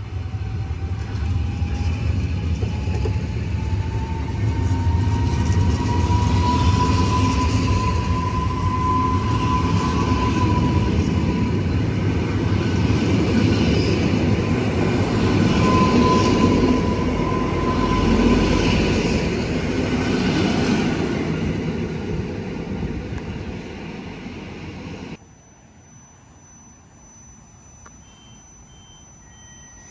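Electric multiple unit running past along the platform: a heavy rumble of wheels on rail, with a high whine that rises in pitch over the first several seconds and then holds. The sound cuts off abruptly about 25 s in, leaving a quiet background with faint steady tones.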